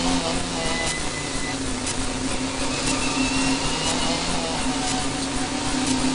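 Renault Mégane RS N4's turbocharged 2.0-litre four-cylinder engine running hard at speed, heard from inside the cabin, with a steady drone and a high whine that rises once about three seconds in.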